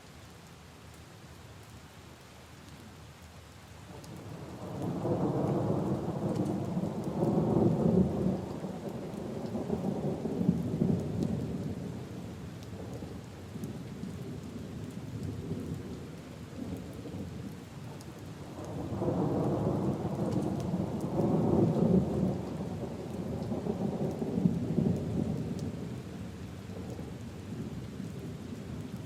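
Steady rain falling on puddles and leaves, with two long rolls of thunder rumbling through it, the first about five seconds in and the second about nineteen seconds in, each swelling and fading over several seconds.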